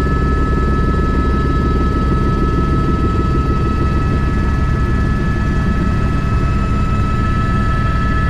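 Airbus H125 (AS350 B3) helicopter in flight: the steady drone of its main rotor and single turboshaft engine, with two steady high-pitched whines over it.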